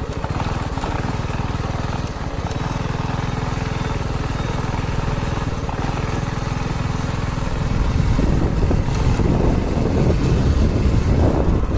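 Motorcycle engine running steadily while the bike is ridden slowly, getting louder about eight seconds in.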